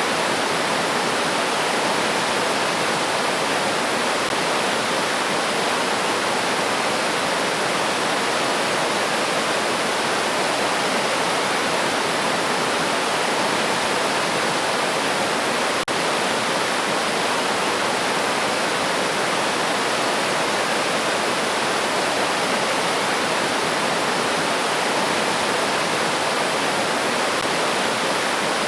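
River water rushing and splashing over rocks, a steady, dense flow with a momentary dropout a little past halfway.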